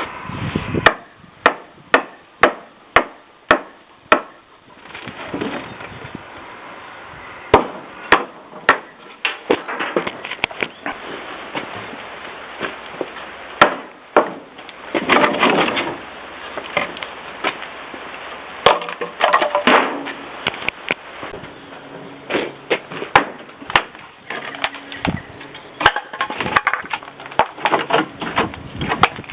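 Hammer blows on wood: a quick run of about seven strikes, roughly two a second, then scattered single blows, with stretches of rough noise in between.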